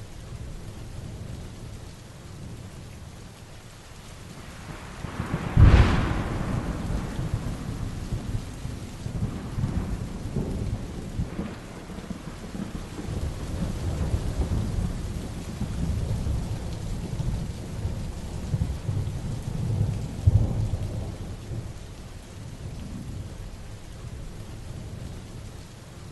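Heavy rain falling steadily through a thunderstorm. A sharp thunderclap about six seconds in rolls into long rumbling, with a second clap about twenty seconds in.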